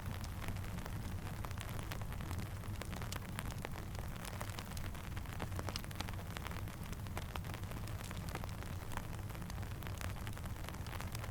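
Steady rain falling, with many scattered sharp ticks and pops over a low, steady rumble.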